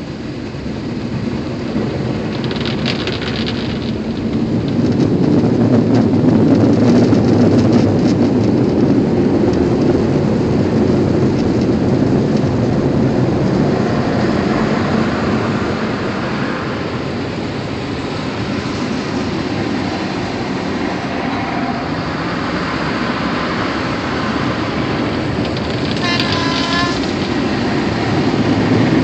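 Automatic car wash air dryers blowing over the car, heard from inside the cabin as a steady, loud rushing rumble that swells about five seconds in. A brief high squeal sounds near the end.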